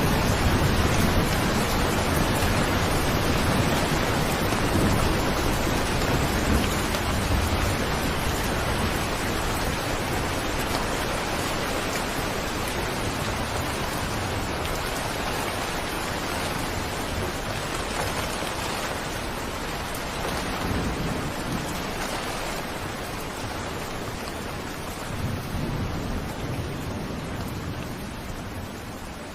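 Steady rain with low rolls of thunder, one at the start and another near the end, the whole sound slowly fading down.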